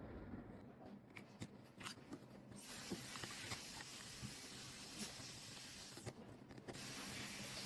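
Light clicks and small scraping noises from handling small tools and parts on an opened iPhone, followed by a faint steady hiss.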